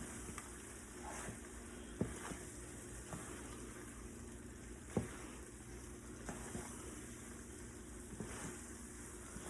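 Faint steady sizzling of food frying in a pan, with a couple of sharp knocks about two and five seconds in.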